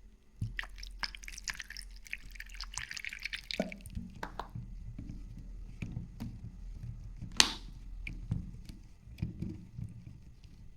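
Liquid dripping and splashing in food preparation, with a dense patter of small wet crackles for the first few seconds, then scattered clicks and knocks and one sharp tap about seven seconds in.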